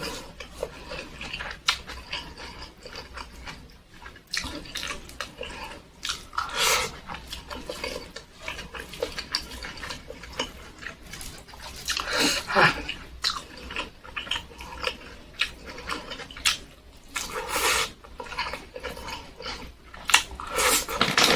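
A person chewing a big mouthful of food close to the microphone: irregular wet smacks and clicks of lips and tongue, with louder bursts of chewing now and then.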